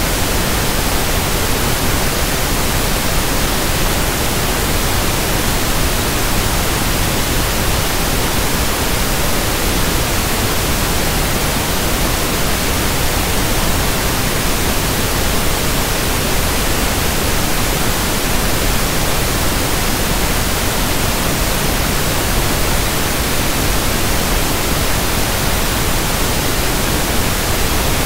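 Synthetic pink noise (1/f noise): a steady, even hiss across the whole range, with no change in level or character.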